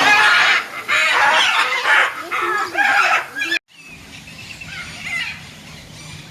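Captive birds squabbling: loud, harsh squawking calls that cut off abruptly about three and a half seconds in, followed by quieter bird calls.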